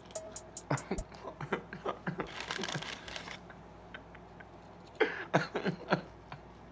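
Close-up eating of chicken nuggets: wet chewing and lip-smacking clicks, with a short hiss a little over two seconds in and a louder run of smacks about five seconds in.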